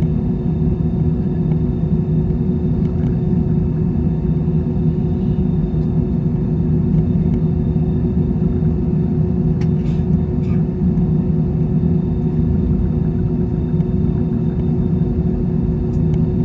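Steady low drone inside the cabin of an Airbus A320-200, with a constant hum running through it and a few faint clicks about ten seconds in.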